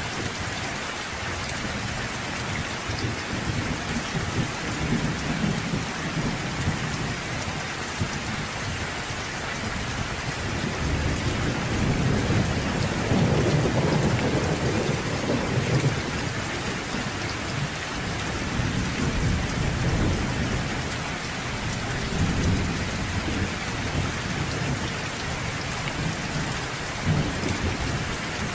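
Steady rain falling, with low rolls of distant thunder swelling and fading beneath it, the longest about halfway through.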